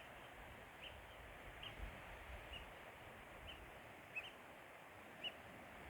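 A bird chirping repeatedly: short, high, arched calls about once a second, over a faint steady outdoor hiss.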